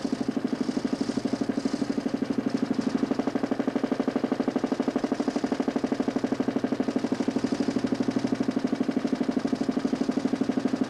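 DC motor spinning a 40 cm plywood Nipkow disc in a homemade 32-line mechanical television, running as a steady drone with a rapid, even pulse.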